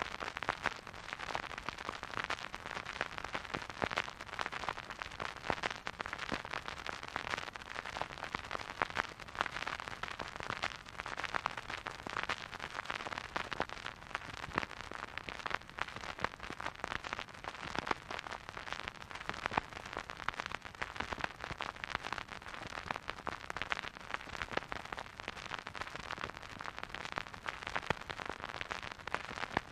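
Vinyl record surface noise from a turntable: a steady soft hiss with dense, irregular crackles and pops from the stylus riding the groove, and no music.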